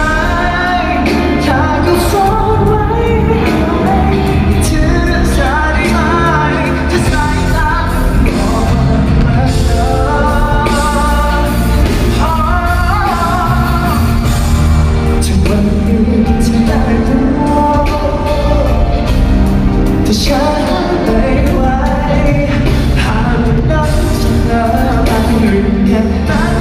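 A live pop-rock band plays with a lead singer: sung melody over drums, bass and guitars.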